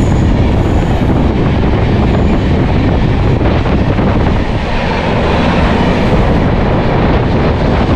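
Train running on the track: a loud, steady rumble and rattle of wheels and coaches.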